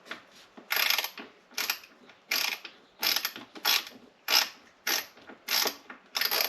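Hand screwdriver working a stripped screw in a coffee maker's housing: about ten short grating, ratchet-like strokes, roughly one and a half a second, as the tool turns and slips in the damaged head.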